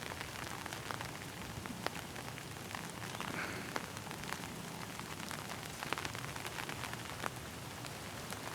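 Steady rain falling, an even hiss scattered with many sharp raindrop ticks.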